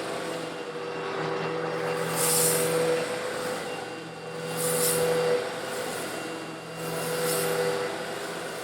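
Old Eureka vacuum cleaner running steadily with a constant motor hum while it sucks up coarse stone granules, slightly larger than sand. Swells of high rattling hiss come about every two and a half seconds as grit rushes through the hose.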